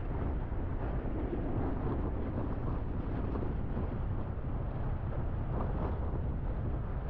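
Steady wind buffeting a GoPro Hero11's microphone, a constant low rumbling rush with no distinct events.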